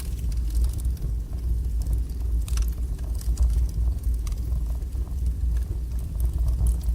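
Wood fire burning strongly, with a steady low rumble of flame and draught and scattered sharp crackles and pops from the burning logs.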